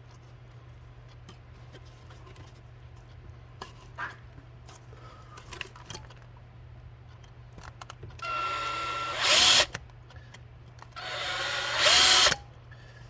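Power drill run in two short bursts a couple of seconds apart, each speeding up and getting louder toward its end, drilling holes in a leaf blower nozzle. Light handling clicks come before.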